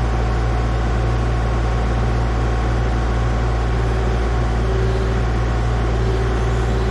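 A steady, loud mechanical drone with a deep low hum, unchanging in pitch and level, like a motor or engine running continuously.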